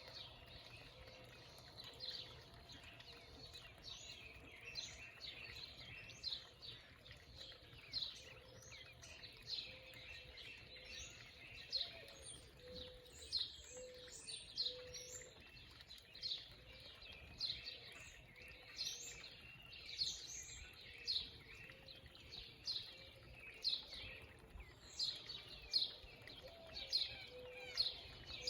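Small birds calling with repeated short, sharp high chips, about one a second, over a steady background hiss.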